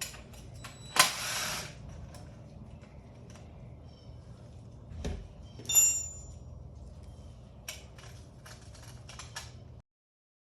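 Hand tools being worked on metal: scattered sharp clicks, a short hissing burst about a second in, a bright metallic clink that rings briefly near six seconds, and a quick run of ratchet-like clicks toward the end.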